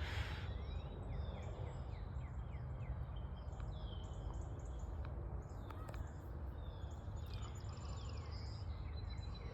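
Several small songbirds calling and singing, with many quick downward-sliding chirps and a fast trill about eight seconds in, over a steady low rumble. A brief rustle comes right at the start.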